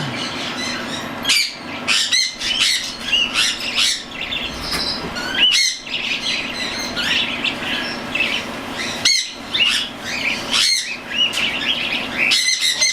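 Young hand-fed cockatiel chicks near weaning, calling repeatedly with many short chirps, and a sharper, louder call every second or two.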